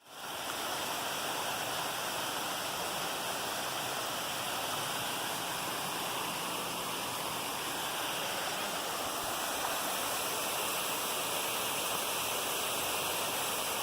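Waterfall: a steady rush of falling water that fades in at the start and holds evenly throughout.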